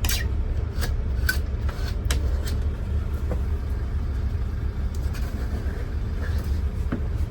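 A screwdriver working down a truck door's window channel, with bits of broken glass clicking and chinking, about six sharp clicks in the first three and a half seconds and few after, over a steady low rumble.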